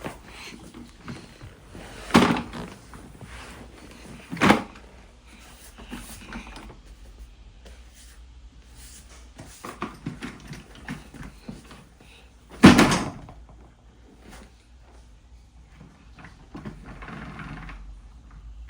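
Toy cars being handled and knocked against a hard surface: small clicks and rattles throughout, with three louder thumps about two, four and a half, and twelve and a half seconds in.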